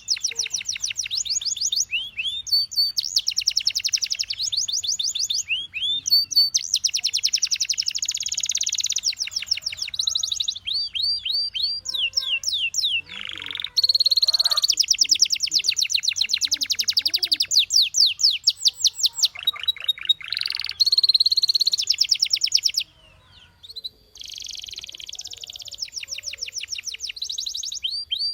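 Canary singing: phrases of fast rolling trills alternating with repeated rising whistled notes, with a brief pause about three-quarters of the way through.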